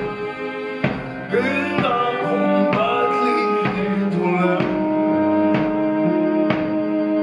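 Live ensemble music: held instrumental tones over a steady drum beat striking a little under once a second, with a singing voice gliding in at times.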